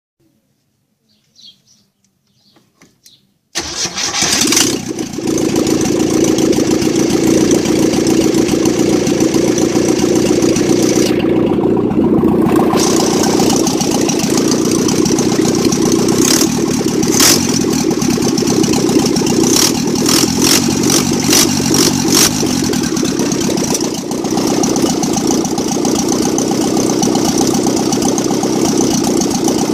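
1969 Ford Capri Mk1's 1.5-litre V4 engine starting from cold on a first test run: after a few faint clicks it fires abruptly about three and a half seconds in and then runs steadily, with a string of sharp ticks partway through.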